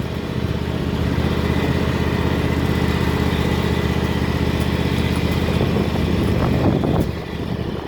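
Vehicle engine running steadily at low speed, easing off a little about seven seconds in.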